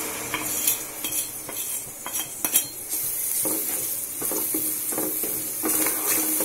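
Coarsely ground garlic, ginger and chilli masala going into hot oil in a kadhai and being stirred with a wooden spatula. There are clinks and scrapes of spoon and spatula against the pan at first, then a steady sizzle of the masala frying from about halfway on.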